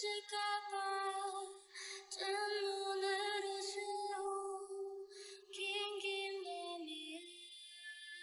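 Background music: a high female voice singing a slow song in long, held notes, with short pauses about two seconds in and again around four to five seconds in, fading near the end.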